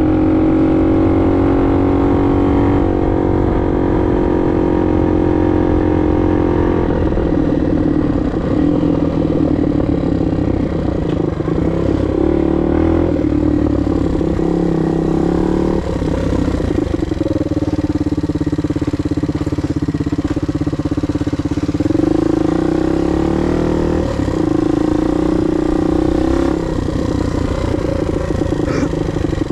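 Suzuki DR 125 trail bike's single-cylinder four-stroke engine running while ridden, its revs rising and falling.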